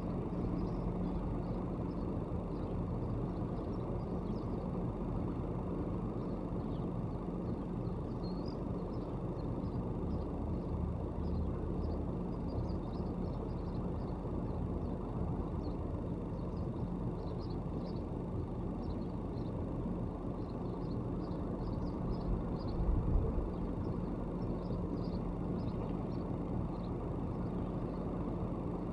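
Steady low rumble of road traffic with a constant hum, and faint scattered bird chirps above it. A brief louder swell of rumble comes about 23 seconds in.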